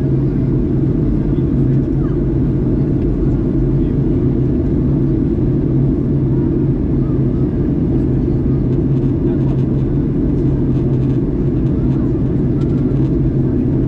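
Steady cabin noise inside a Boeing 737 MAX 8 in flight: a continuous low drone from its CFM LEAP-1B engines and the airflow over the fuselage.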